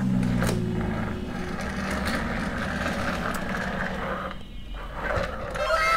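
Battery-powered toy vehicle running, its small motor whirring and wheels rattling with scattered clicks. Near the end a series of falling electronic tones starts.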